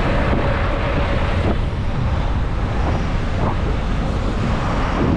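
Wind buffeting the microphone of a rider on a moving bicycle: a steady low rumbling noise.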